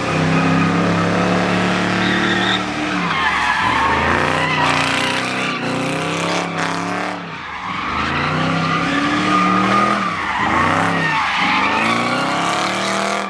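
A car sliding at high revs: the engine is worked hard, its pitch climbing and falling in repeated swells, over steady tyre squeal.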